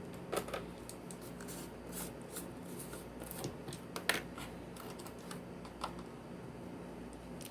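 Scattered small clicks and taps of measuring spoons and spice containers being handled while garlic powder is measured out, with one sharper click about four seconds in, over a faint steady hum.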